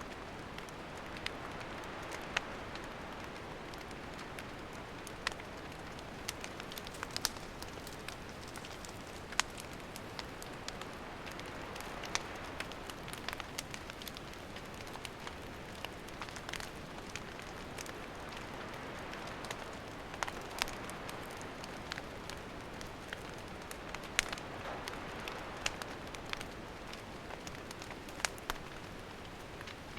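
Wood campfire burning: a steady hiss with irregular sharp crackles and pops.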